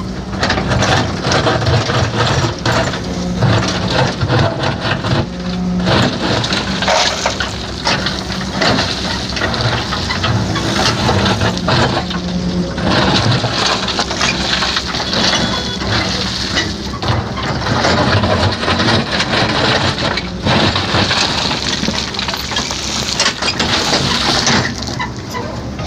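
Heavy diesel construction machine running under load, with a steady low engine note beneath a dense run of irregular cracking and crunching as material is broken up or moved.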